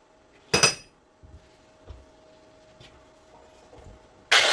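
A sharp metallic clink about half a second in, like a steel bracket set down on a bench, then a few faint handling knocks. Near the end a 90-degree die grinder starts up loudly, with a rising whine.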